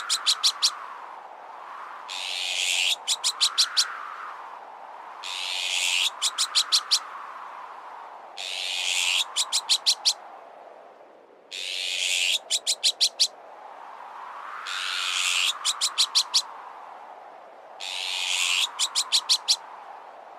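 Looped bird-repellent sound: a harsh, raspy alarm call followed by a quick run of five or six sharp chattering notes, repeating about every three seconds, typical of an azure-winged magpie alarm call. Under it, wind noise swells and fades.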